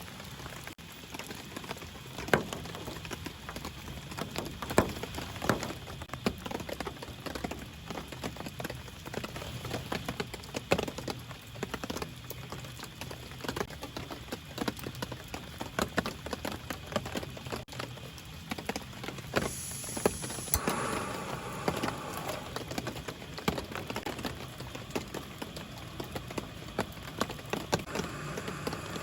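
Rain falling, with many irregular drops tapping sharply on a surface. About two-thirds of the way through a brief high hiss comes in, and the sound grows denser after it.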